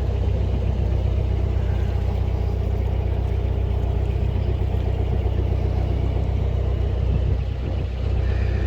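Canal boat's engine running steadily at cruising speed: a low, even rumble that eases slightly for a moment near the end.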